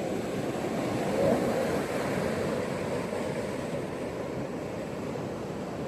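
Ocean surf washing onto a beach, a steady rush of waves that swells to a peak about a second in.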